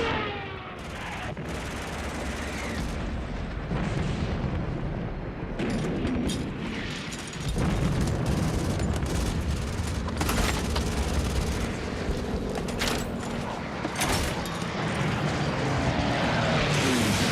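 War-film battle soundtrack: dense gunfire and explosions, shots crowding into a continuous barrage. A falling whistle comes in near the end.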